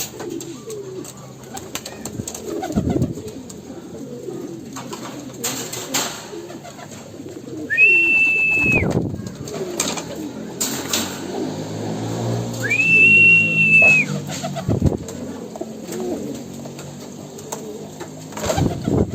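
Racing pigeons cooing in the loft, many overlapping low calls throughout. Two long, steady high-pitched whistle-like tones sound about eight and thirteen seconds in, and there are a few sharp knocks.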